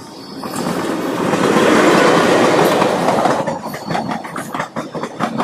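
Electric locomotive hauling a passenger train passes close by, its loud rush building to a peak about two seconds in. After that comes the rhythmic clickety-clack of the coaches' wheels over the rail joints.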